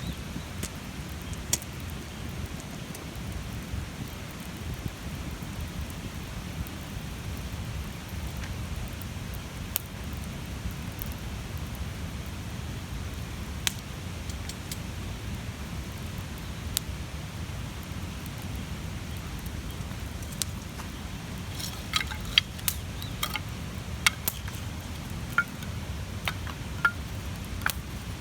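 Large campfire burning: a steady low rush of flames with scattered sharp crackles and pops, which come more often near the end.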